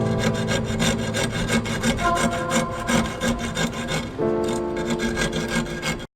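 Rapid, rhythmic hand-file or rasp strokes, with steady ringing tones behind them. The sound cuts off abruptly near the end.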